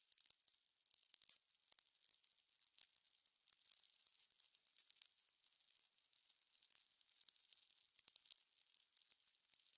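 Fire crackling: a soft steady hiss with irregular sharp pops and snaps, several a second.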